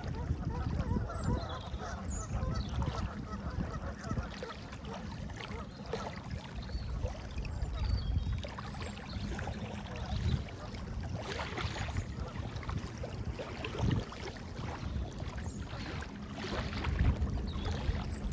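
Waterfowl calling, likely geese honking, over a rough rumble of wind buffeting the microphone, with a few faint high bird chirps.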